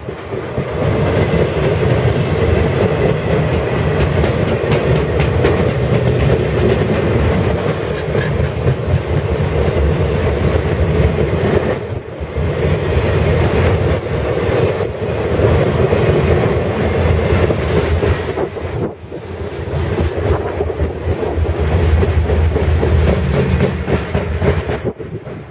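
Freight train boxcars rolling past on steel rails: a steady, loud rattle of wheels and cars, dipping briefly twice, with a short high-pitched wheel squeal about two seconds in.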